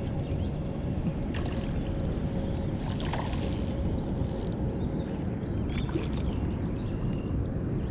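Steady low rushing noise of river water and wind outdoors, with a few faint short splashy sounds.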